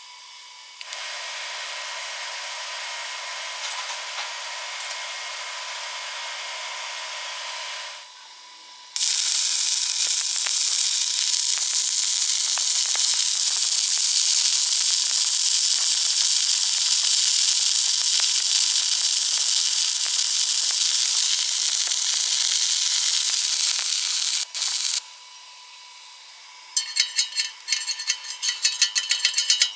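Stick-welding arc hissing and crackling in two runs: a quieter one of about seven seconds, then after a short break a louder one of about sixteen seconds. Near the end comes a quick series of rhythmic scraping strokes.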